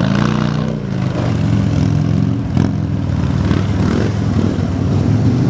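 Police motorcycle engine revving up and down as the bike is ridden through a timed skills course, its pitch rising and falling again and again. A sharp knock about two and a half seconds in.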